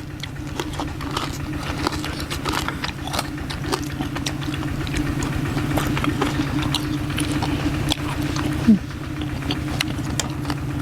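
Someone chewing crispy pork cracklings with many short, crisp crunches. Under it runs a steady low mechanical hum like an engine.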